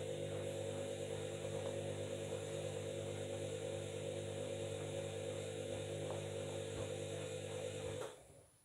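Washing machine running with a steady motor hum, which cuts off suddenly near the end.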